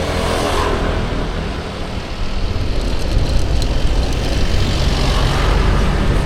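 Motorbike running steadily along a street while being ridden, engine rumble mixed with road and wind noise; it dips slightly about two seconds in, then picks up again.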